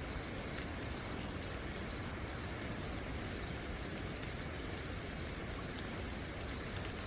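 Steady rain falling, an even hiss, with crickets trilling on one continuous high note and a few faint ticks of drops.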